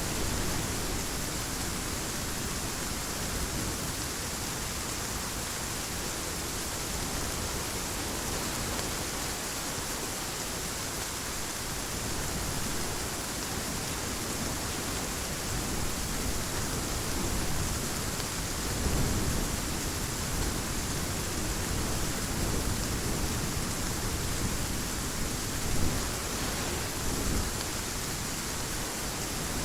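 Heavy rain falling steadily, with low rumbles of thunder swelling about two-thirds of the way through and again near the end.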